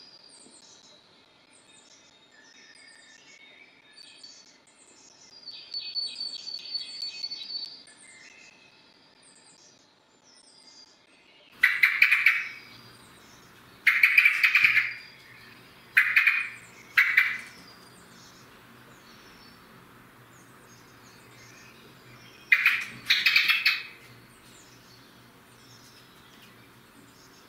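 Eurasian blackbirds and other small birds singing and calling. High, quick chirps repeat steadily, with a short rattling trill early on. From about a third of the way in come six loud calls close to the microphone, in twos and threes.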